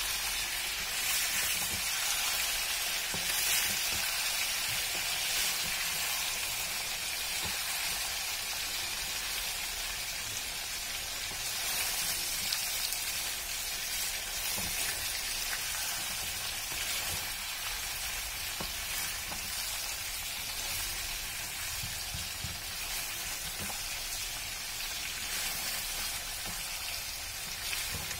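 Pork innards sizzling as they fry in a steel wok, a steady hiss, with a wooden spatula stirring and knocking against the pan now and then.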